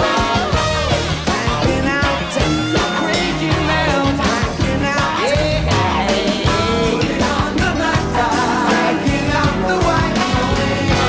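A live band plays an upbeat rock song with a steady drum beat.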